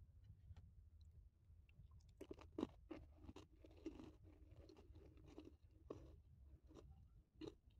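A person chewing a crunchy snack with the mouth closed, close to the microphone. The crunching starts about two seconds in, comes thick for a few seconds, then thins to single crunches.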